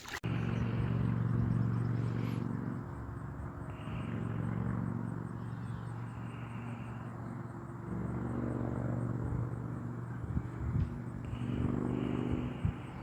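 A motor vehicle's engine running steadily while driving, its level dipping and rising a little. A few short low thumps near the end.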